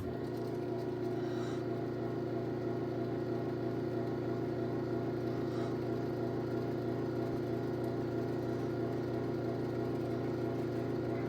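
Garage door opener motor running steadily through a close cycle, an even motor hum.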